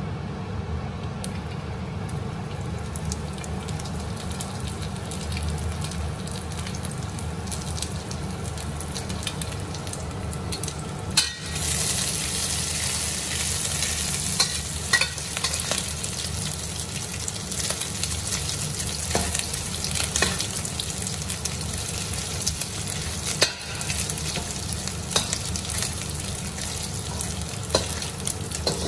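Dried anchovies (ikan bilis) frying in hot oil in a stainless steel wok, a steady sizzle over a low hum. The sizzle gets louder about eleven seconds in. After that a metal spatula scrapes and taps against the wok now and then.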